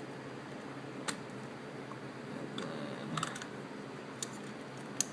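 Small metal clicks and light ticks from unscrewing the throttle slide cap on top of a dirt bike carburetor, a few separate clicks over a low background.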